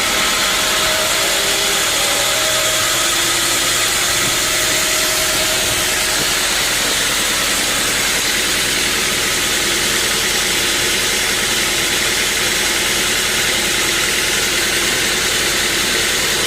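Portable bandsaw sawmill running steadily, its engine and band blade making a loud, unbroken noise.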